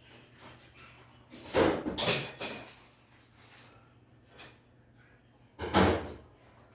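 Clunks and clatters of something being handled, in two bouts: a longer one about a second and a half in and a shorter one near the end.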